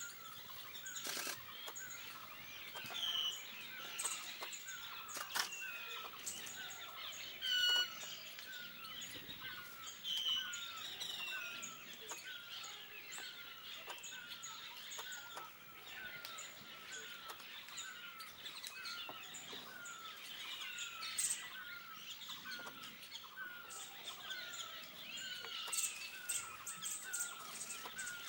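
Several wild birds calling and singing, one of them repeating a short down-slurred whistled note over and over, a little under two a second, with other higher chirps and calls mixed in.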